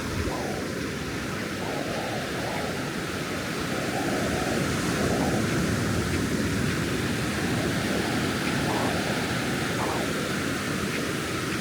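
Ocean surf washing onto the beach, a steady rushing noise that swells a little in the middle.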